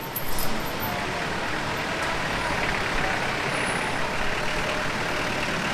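Steady street traffic noise, with a motor vehicle engine running close by.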